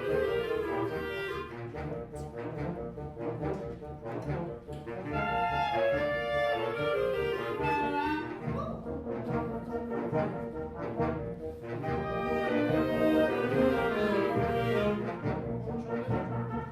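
Wind band playing: brass and woodwinds sounding sustained chords and moving lines together.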